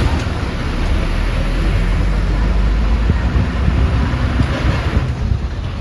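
Interior ride noise of a moving passenger bus: a steady deep rumble of engine and road noise with a hiss of rushing air over it.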